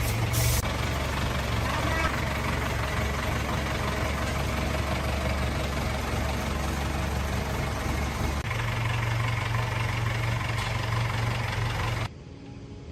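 Engine running steadily with a low hum; the note shifts about eight seconds in and the sound cuts off abruptly near the end.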